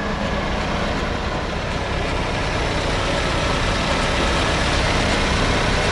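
Nissan March K11 with a newly installed engine running on the road: steady engine and road noise that grows slightly louder over the few seconds.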